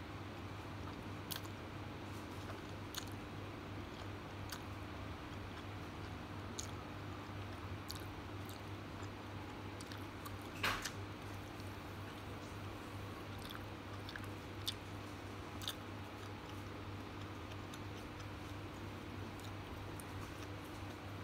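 Close-up mouth sounds of a person eating noodles and fishballs: chewing with scattered short, sharp mouth clicks, one louder about halfway through. A steady low hum runs underneath.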